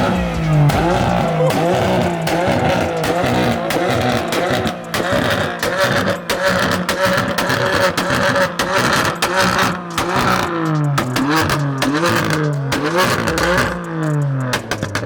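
Car engine revved over and over, its pitch climbing and falling with each blip, the blips coming faster in the second half, with many short sharp cracks throughout.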